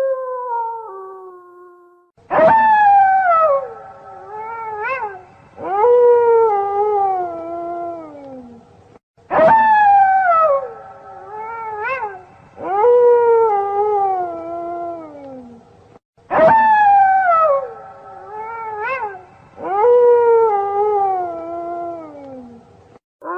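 Wolves howling: calls that start sharply and slide down in pitch, with a short rising-and-falling yip between them. The same sequence repeats three times, about seven seconds apart. A steady held howl fades out near the start, and another begins right at the end.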